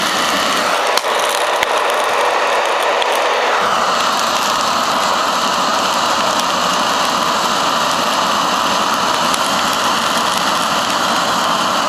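Hair dryer running steadily, blowing air onto burning lump charcoal to fan it down to coals. About four seconds in, the rush of air shifts to a higher, hissier tone.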